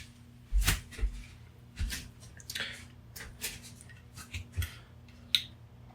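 Scissors snipping and crunching into a USB charging cable: a string of short, irregular cuts and clicks as the cord is chopped apart.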